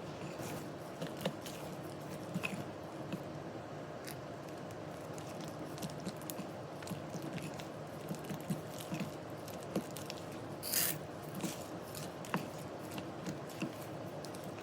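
Kitchen work sounds played at double speed: irregular light clicks and scrapes of utensils over a steady background hum, with a brief hissing rush about eleven seconds in.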